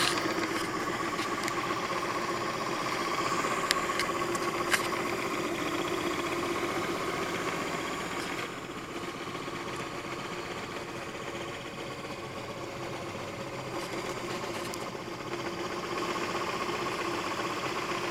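A 3D printer running a print: its stepper motors whine and buzz in shifting tones as the print head moves. Two sharp clicks come about a second apart, around four seconds in.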